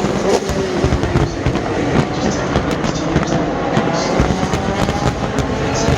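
Race car engines running on the circuit, their pitches sliding as the cars go by, with scattered sharp cracks over the steady noise.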